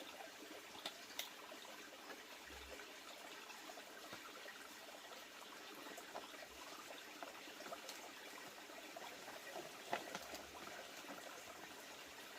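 Faint trickling water, with a few light clicks or taps scattered through it.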